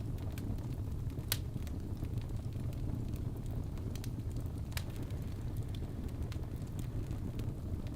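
Logs burning in a fireplace: a steady low roar of flame with scattered sharp crackles and pops, the loudest about a second in and again near five seconds.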